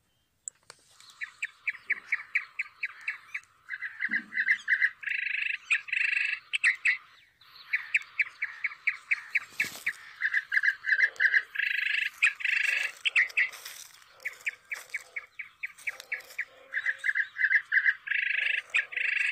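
A bird singing the same phrase over and over: a run of quick, evenly spaced high chirps, a run of slightly lower chirps, then a short buzzy trill. The phrase comes round about every six to seven seconds.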